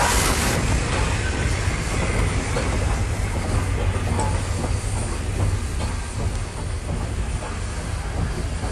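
Train rolling on the rails: a steady low rumble with faint clicking of wheels over rail joints. A loud hiss dies away about half a second in.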